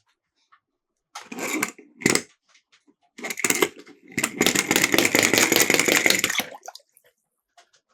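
Small die-cast toy cars rolling and clattering down a plastic slope: two short rattles about a second and two seconds in, then a longer run of fast rattling from about three to six and a half seconds.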